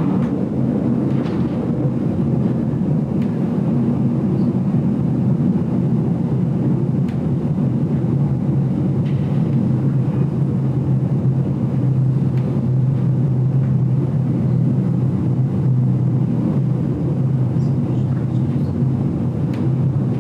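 Running noise of the GoldenPass Belle Époque train: a steady low rumble with a constant hum, and a few faint light clicks and rattles.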